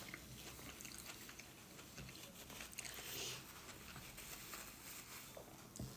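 Faint chewing of a mouthful of gnocchi, the mouth closed.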